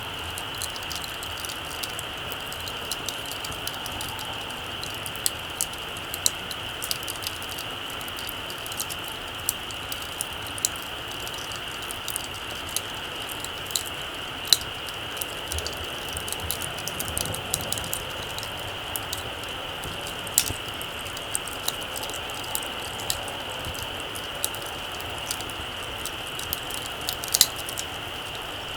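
Small campfire of dying embers crackling, with irregular sharp pops and ticks, a few louder ones around the middle and near the end, over a steady high-pitched hiss.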